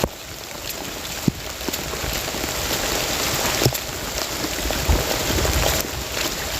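Heavy rain pouring steadily, with scattered sharp drop hits. It drops away briefly at the very start, then builds back up.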